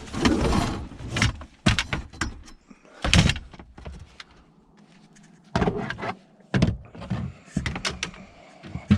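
Scrap items being shifted and packed into a car: a scraping slide at the start, then a series of separate clunks and knocks, the loudest about three seconds in.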